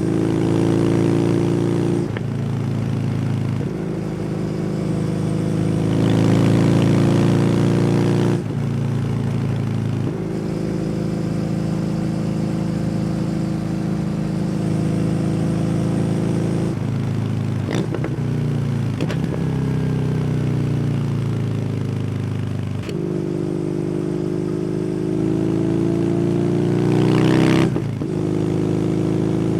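Kawasaki W800's air-cooled parallel-twin engine, breathing through an SC Project aftermarket exhaust, riding on the road. It pulls up in pitch and changes up through the gears, with the note dropping at each shift. About two-thirds of the way through it slows with a few downshift blips and falling revs, then accelerates again and shifts up near the end.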